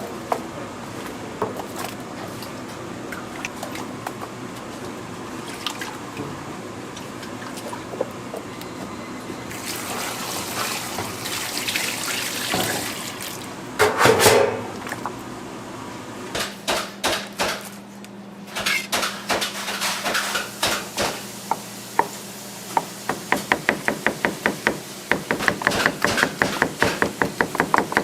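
Food preparation with scattered clinks, a stretch of running or splashing water around the middle, then a fast, even run of sharp knocks, about three or four a second, in the last few seconds.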